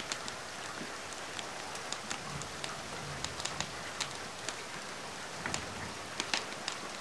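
Steady rain hiss with scattered sharp clicks and pops, from a mix of rain and a crackling fireplace.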